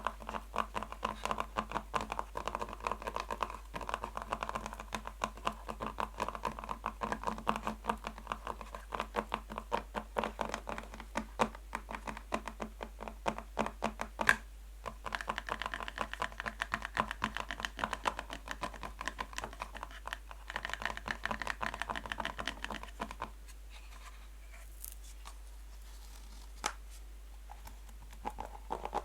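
Natural fingernails tapping fast and lightly on a box, a dense run of many small clicks a second. The tapping stops for a few seconds near the end, leaving only a couple of single taps, then starts again.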